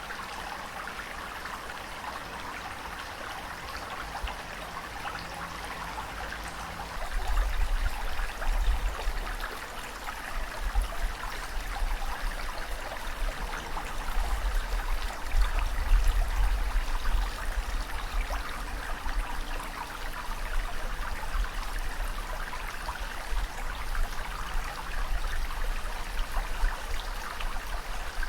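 Ocean water washing and fizzing in a steady, crackling hiss. A deep rumble comes in about seven seconds in and swells to its loudest about halfway through.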